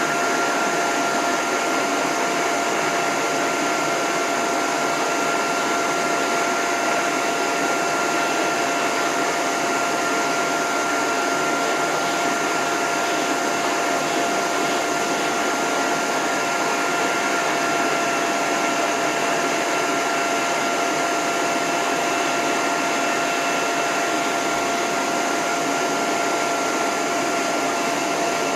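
Dog grooming hose dryer (high-velocity blower) running at a steady pitch on its lowest setting with the end nozzle off, a constant rush of air with a steady whine.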